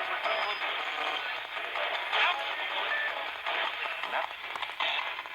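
Spirit box (ghost box) radio sweeping rapidly through stations: chopped-up snippets of music and voices with static between, each lasting only a fraction of a second, with a thin, tinny sound.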